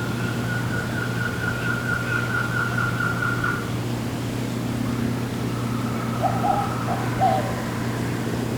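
Tropical forest ambience: a bird gives a long, even trill lasting about three and a half seconds, then a shorter, fainter trill and a few short lower calls near the end, over a steady low hum.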